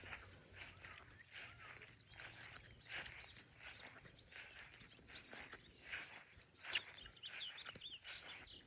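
Faint footsteps walking through grass on a mown trail, about two steps a second, over a steady high insect buzz. There is one sharp click about seven seconds in, and a few short chirps near the end.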